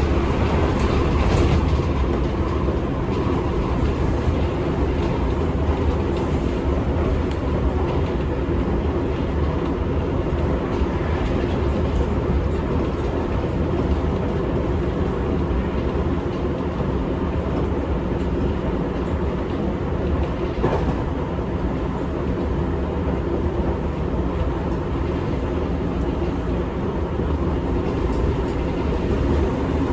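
Seibu 6000 series electric train, fitted with Mitsubishi SiC VVVF inverters, running at speed between stations, heard from inside the car. A steady rumble of wheels on rail is broken by a few sharp clicks from the track near the start and about two-thirds of the way through.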